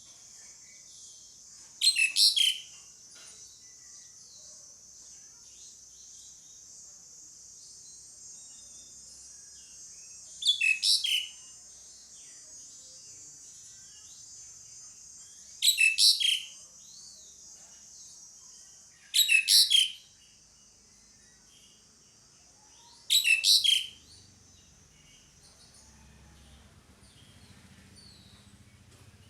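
Asian pied starling (jalak suren) calling: five short bursts of quick, shrill notes, each under a second, spaced a few seconds apart, over a steady faint high hiss.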